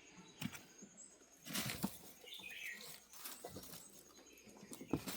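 Dry coconut palm leaf rustling and scraping in short, irregular bursts as kittens bat at and pounce on it, with a brief high chirp about halfway through.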